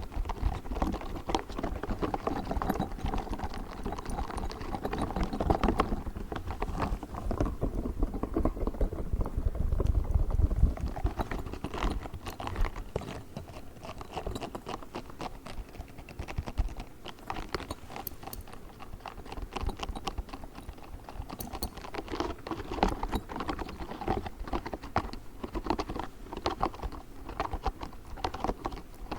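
Pink spiky ball handled close to the microphone, making rapid, irregular clicks and taps. The taps are louder in the first third and again toward the end.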